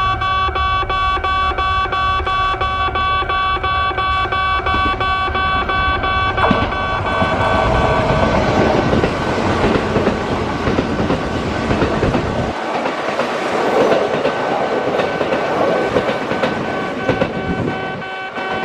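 Kintetsu train running through the station: a loud rush of wheels and running noise builds about six seconds in and fades near the end. A steady ringing tone made of several pitches sounds under it the whole time.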